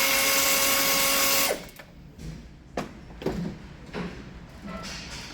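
Electric power drill running steadily for about a second and a half, then winding down, followed by several short trigger bursts, each spinning up and stopping quickly.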